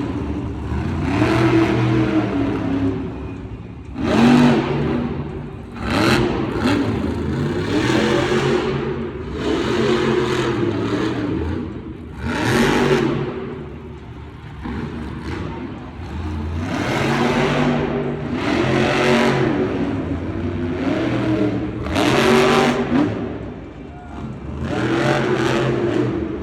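A monster truck's supercharged V8 revving hard and falling back, again and again, through a freestyle run. Several loud surges of noise stand out over it.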